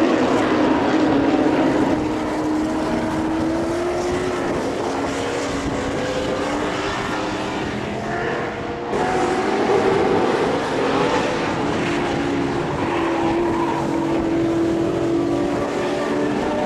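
A pack of late-60s and early-70s muscle and touring cars racing, several engines at high revs at once with their pitches rising and falling as they power round the track. There is a brief drop and sudden change about halfway through, after which the engines carry on.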